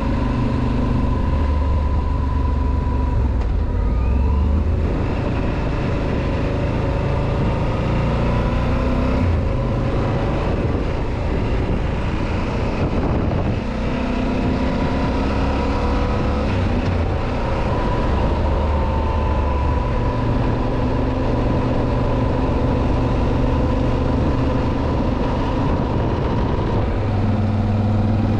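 Yamaha XT1200ZE Super Ténéré's 1199 cc parallel-twin engine running at road speed, its note changing pitch several times with throttle and gears, over wind and road noise on a wet road.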